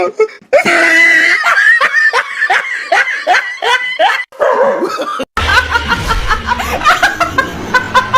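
A person laughing hard in quick repeated bursts; about five seconds in the sound cuts to another stretch of laughter over a low hum.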